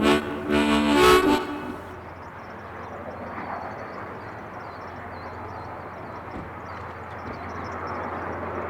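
A locomotive whistle sounds a chord of several steady tones in short blasts, the last ending about a second and a half in. A steady rushing noise follows.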